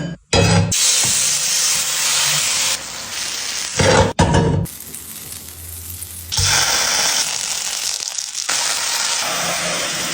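Food sizzling as it fries in hot oil, a steady dense hiss. It starts and stops abruptly, loud for the first few seconds, quieter in the middle and loud again for the last four seconds.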